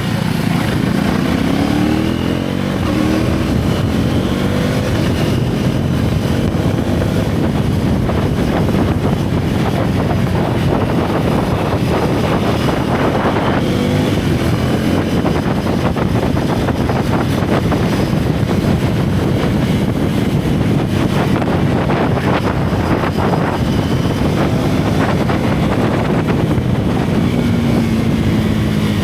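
Single-cylinder motorcycle engine running under way, its revs rising and falling in the first few seconds with a brief dip about two seconds in, then pulling steadily, with wind on the microphone.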